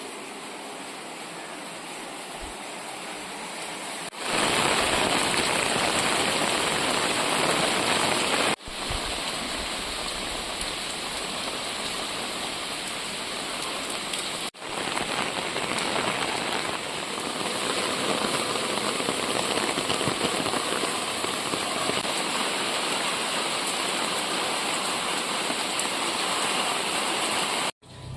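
Steady, heavy rain falling, a dense even hiss, loudest between about four and eight seconds in. It drops out for a split second three times.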